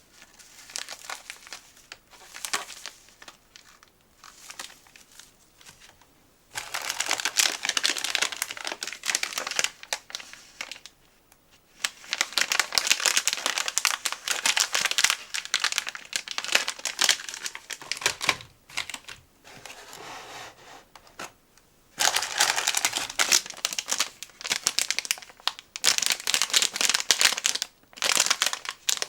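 Snack packaging crinkling as it is handled and crumpled, in three long stretches of dense crinkling with quieter rustles and light ticks between.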